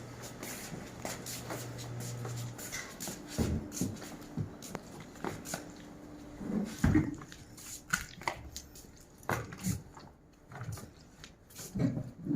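Scattered knocks and clatter from objects being handled, over a faint steady hum that shifts to a slightly higher tone about two and a half seconds in.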